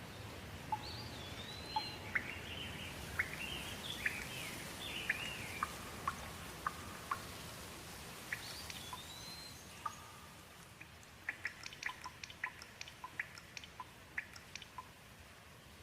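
Rain ambience: a soft steady patter with clear water drops dripping. Over it a bird chirps and whistles in short rising-and-falling calls through the first half and again near the middle. A quick run of drips comes near the end.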